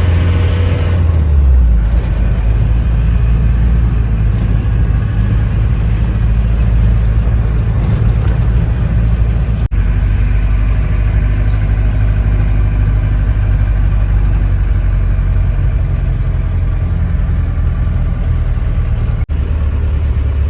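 Steady low rumble of a moving motor vehicle's engine and road noise.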